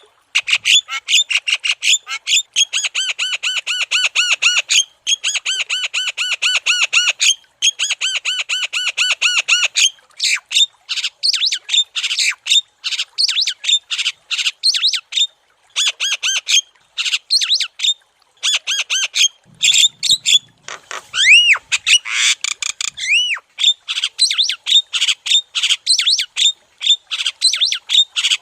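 Javan myna (jalak kebo) singing loudly in fast runs of harsh, rapidly repeated chattering notes, broken by short pauses. About three-quarters of the way through it gives a couple of clear whistles that glide up and down.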